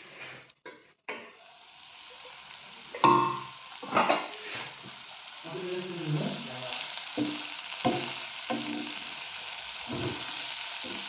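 Chicken gizzards sizzling in spiced masala in a pan, with a spoon clinking and scraping against the pan as they are stirred; the two loudest clinks come about three and four seconds in.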